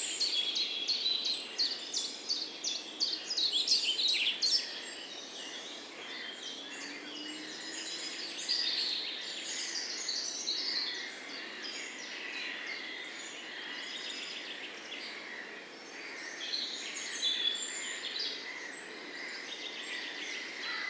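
Songbirds chirping and singing in chorus, many short overlapping calls and trills. The calls are busiest and loudest for the first few seconds, then thinner.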